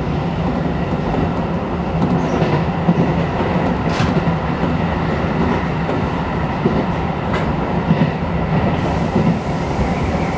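Shin-Keisei electric commuter train running along the track, heard from inside the front car: a steady rumble of wheels on rail with a few sharp clicks from the rail joints.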